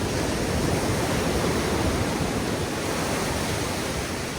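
Atlantic Ocean surf washing onto a sandy beach: a steady rushing of breaking waves, easing slightly toward the end.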